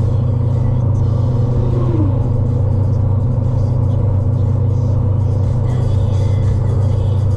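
Steady low drone of a truck driving on the road, with music playing along.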